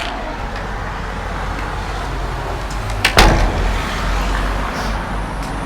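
Road vehicle passing close on a town street: a steady rumble and hiss that swells toward the middle, with a sharp knock about three seconds in.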